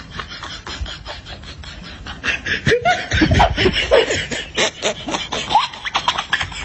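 A person laughing in short choppy bursts, getting louder about two seconds in.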